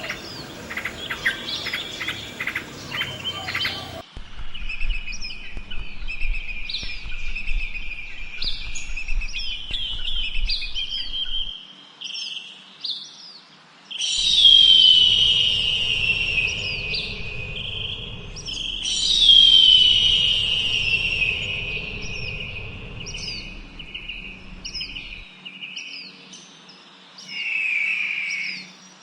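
Birds chirping and calling, many short repeated chirps, with two loud calls that slide down in pitch about halfway through. The sound changes abruptly a few times, as from one recording to another.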